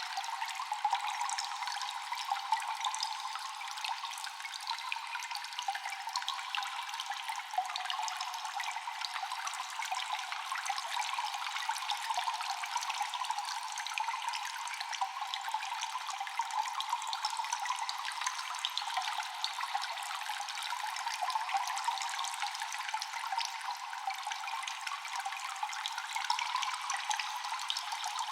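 Cave ambience of water dripping constantly: many small, echoing drops over a steady trickling hiss.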